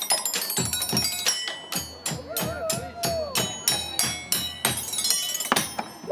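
Live percussion beaten out on construction materials: struck metal ringing over deep thumps in a steady beat of about three strikes a second, ending with a final hit near the end.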